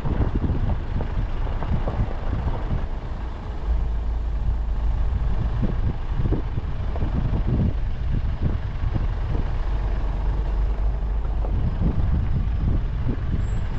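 Car driving along a dusty dirt road: a steady low engine and tyre rumble with many small irregular knocks and rattles from the uneven surface.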